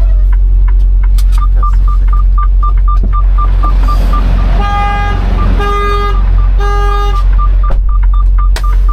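Steady low engine rumble of a semi truck with a short high electronic beep repeating about four times a second, and a vehicle horn honking three times in the middle.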